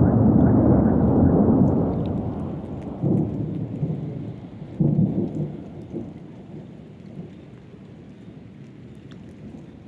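Thunder rolling and rumbling over steady rain. The rumble is loudest at first and dies away after about two seconds, with fresh swells about three and five seconds in, then fades until mostly the hiss of the rain is left.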